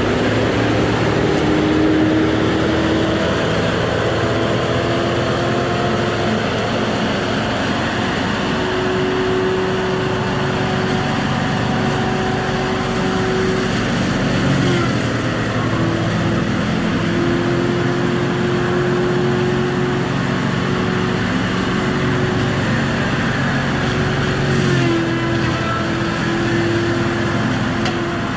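Diesel engine of a heavy logging machine running hard and steadily, its drone shifting slightly in pitch a few times as the load changes.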